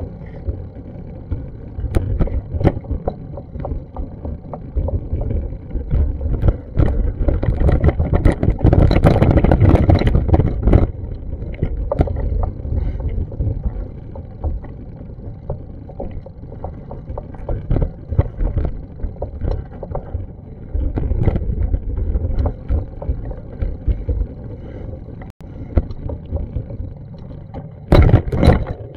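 Wind buffeting an action camera's microphone outdoors: a low rumble with crackling pops, swelling into louder gusts about a third of the way in and again near the end.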